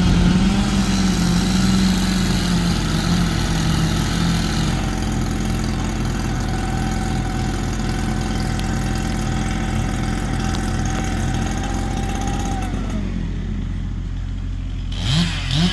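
Small petrol engine running steadily at high speed. Its pitch drops about twelve seconds in, and it revs back up just before the end.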